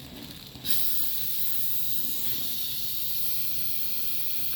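Dental air-water syringe spraying in a steady hiss that starts suddenly about a second in, rinsing the green caries-detector dye off the tooth.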